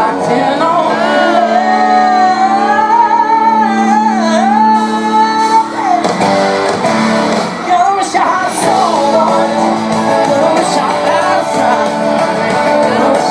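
A live country-pop band with guitar plays while a male lead singer holds one long, wavering note for about five seconds, then sings on over the band.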